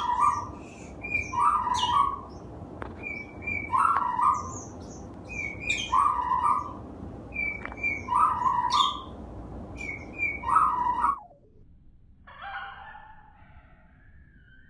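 A bird call, a short phrase of several chirping notes, repeated about every two seconds six times over a low steady hiss. It cuts off abruptly about eleven seconds in, and fainter, wavering calls follow.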